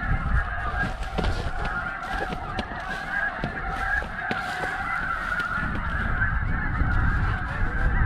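Dense, continuous chorus of snow geese calling, many high-pitched honks overlapping with no break.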